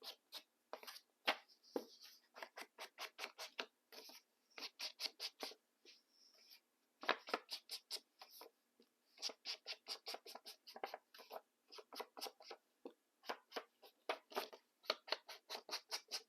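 Quick, repeated rubbing strokes of a colouring tool against the edges of a paper page, about three a second with a few short pauses, darkening the white paper to give it a border.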